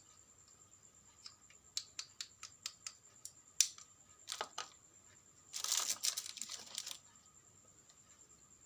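Small parts being handled on a workbench: a run of light, sharp clicks and taps, then a harsh rasping, tearing-like noise lasting about a second and a half.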